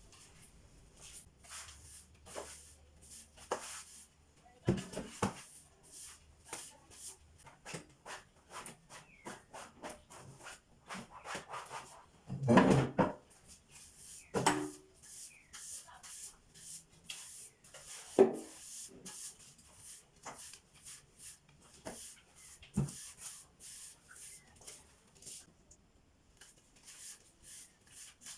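Handling sounds from tidying up: a run of small clicks, rubs and knocks as things are picked up, moved and put down, with a few louder thumps, the loudest about 12 and 18 seconds in.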